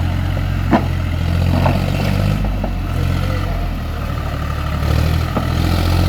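John Deere tractor engine running steadily with a low drone, with a few short sharp knocks, the loudest about a second in.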